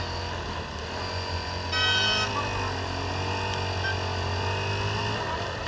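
Motorcycle riding in traffic, its engine running steadily with road and wind noise. A vehicle horn honks briefly about two seconds in.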